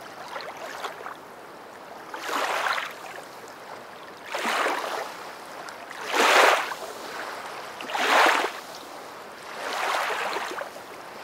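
Water washing in regular swells about every two seconds, like small waves lapping, over a low steady hiss.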